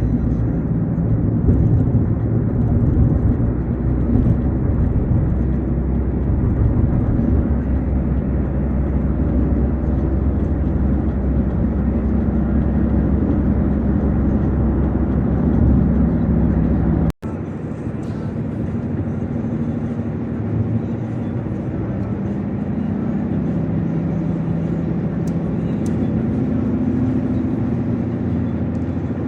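Car driving on the road: a steady drone of engine and tyre noise. About seventeen seconds in the sound cuts out for an instant, then carries on with less deep rumble.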